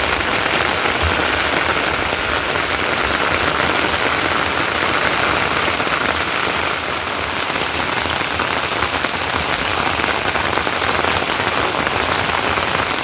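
Steady, heavy rain falling, a dense even hiss of drops.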